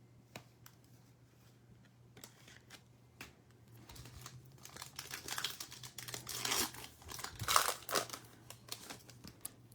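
A trading card pack's wrapper being torn open and crinkled, preceded by a few light clicks of cards being handled; the crinkling builds up and is loudest in the second half.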